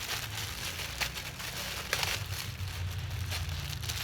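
Hands handling fuel filter elements: light rustling with sharp clicks about one and two seconds in, over a steady low hum.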